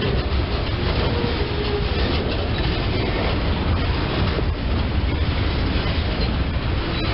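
Freight cars of a CSX local freight train rolling past at close range: a steady, loud rumble and clatter of steel wheels on the rails.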